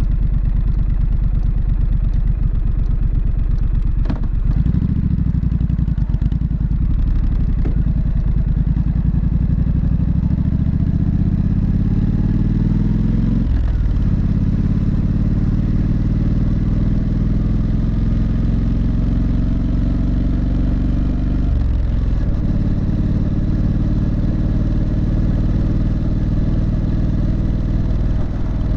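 Triumph Street Scrambler's 900 cc parallel-twin exhaust while riding, the engine pulling up through the revs and upshifting about four seconds in, about fourteen seconds in and about twenty-two seconds in, then running steadily.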